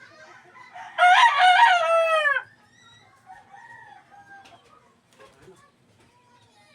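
A rooster crows once, starting about a second in and lasting about a second and a half; its call is held and then falls in pitch at the end. Fainter, shorter calls follow.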